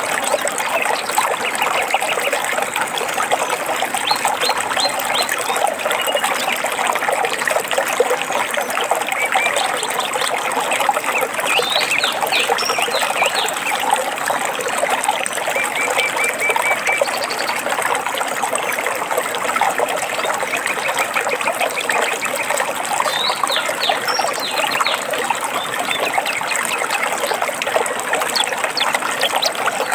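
Shallow stream trickling and babbling steadily, with a few short bird chirps over it now and then.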